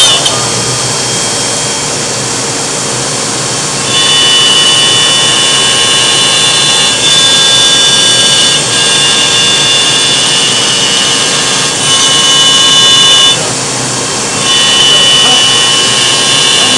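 Laguna CNC router spindle running and cutting, a loud steady noise with a high whine. The whine and louder cutting noise come in about four seconds in, drop out briefly near thirteen seconds, and return, as the bit goes in and out of the material.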